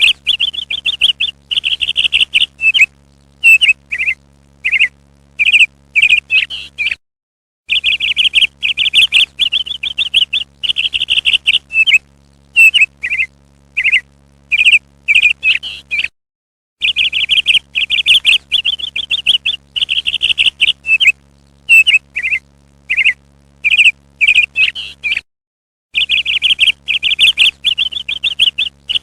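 Parrot calls: runs of rapid, harsh chattering followed by single sharp notes. The same sequence repeats about every nine seconds with a brief dead-silent gap between, as from a looped call recording.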